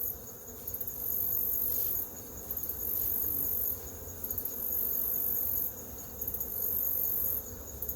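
Insects singing in repeating high-pitched buzzing phrases, each a second or two long with short ticking between them, over a faint steady hum of honeybees around the opened hive.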